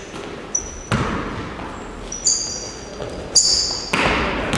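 A basketball bouncing on a hardwood gym floor, two loud echoing hits about three seconds apart, with short high squeaks of sneakers on the court in between.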